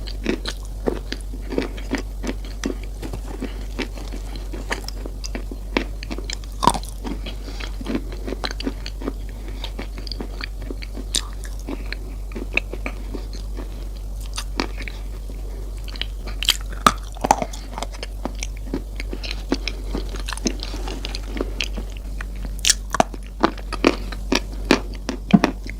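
Close-miked chewing of crunchy Coco Crunch chocolate cereal: sharp, irregular crunches and cracks, coming thicker near the end, over a steady low hum.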